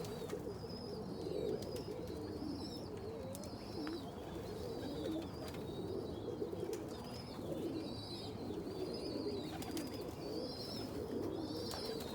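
Many domestic pigeons cooing together in a loft, their overlapping coos making a steady low murmur. Over it a short high chirp repeats about once a second.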